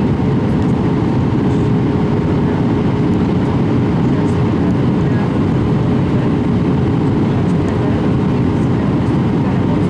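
Airbus A319 passenger cabin: a steady, loud rumble of jet engines and airflow, with a faint steady hum running through it.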